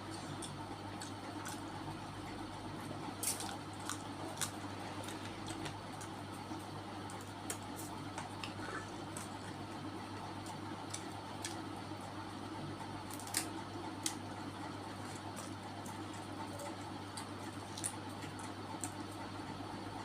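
Close-miked eating sounds: wet chewing and squishing, with scattered sharp clicks every second or few, over a steady low hum.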